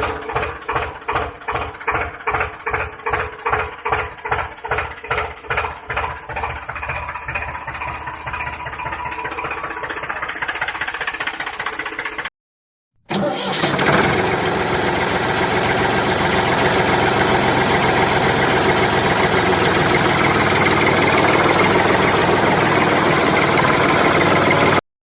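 An engine chugging with a slow beat, about two beats a second, that quickens into a steady run. After a brief cut, a louder steady engine sound runs on.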